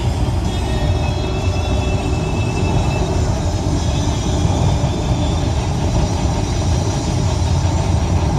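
Heavy rain falling: a steady, loud rush with a deep rumble underneath.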